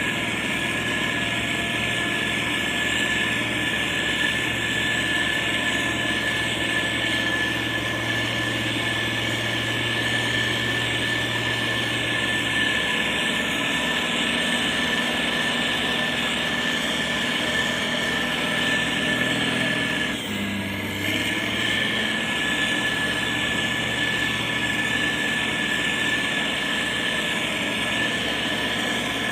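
Motor grader's diesel engine running steadily as it works a gravel road, with a steady high whine over the engine note. The note shifts slightly about twelve seconds in and briefly drops about twenty seconds in.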